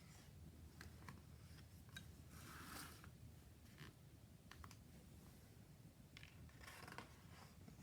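Near silence with a few faint clicks and two brief soft rustles, one about two and a half seconds in and one near the end.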